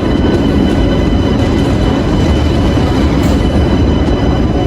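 Steady rumble of a moving passenger train, heard from inside a carriage, with a faint steady high whine over the running noise.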